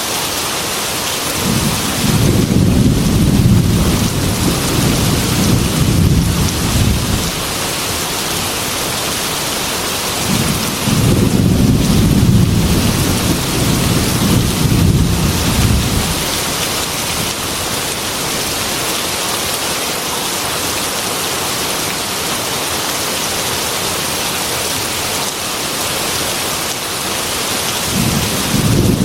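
Heavy rain on a metal roof, a steady hiss, with thunder rumbling three times: two long rolls of about five seconds each near the start and in the middle, and a third starting near the end.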